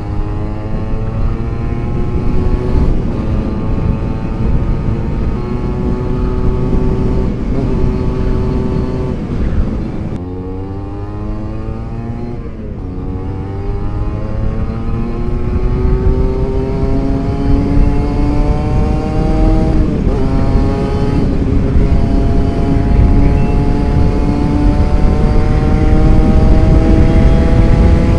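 Two-stroke Kawasaki Ninja 150 engine and exhaust under hard acceleration, its pitch climbing through the revs and dropping at each upshift several times, with low wind rumble on the helmet camera microphone.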